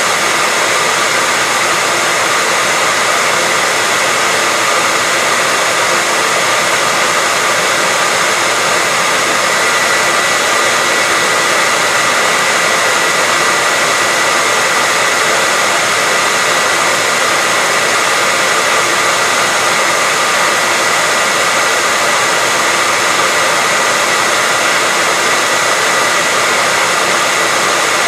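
Hair dryer running continuously at a steady speed: an even rushing hiss of blown air with a steady high whine from the motor.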